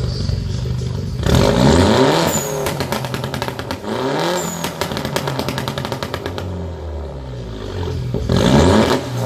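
Car with a loud aftermarket exhaust idling, then revved hard three times: about a second in, near four seconds and near the end. A rapid run of crackles and pops from the exhaust follows the first revs as the engine speed falls.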